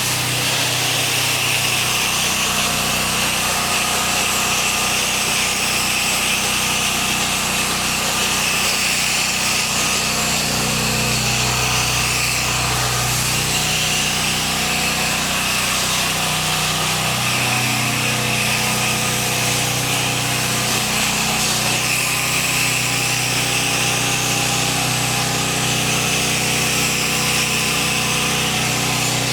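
Pressure washer running steadily, a continuous hiss of high-pressure water spray over the low, even hum of its motor.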